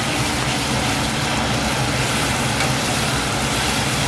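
Onion-tomato masala frying in oil in a stainless steel pot: a steady sizzle over a low, even hum.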